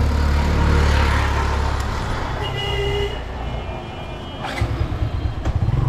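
Road traffic: a motor vehicle passes close by with a low rumble in the first two seconds. A brief high steady tone follows, then another engine starts running near the end.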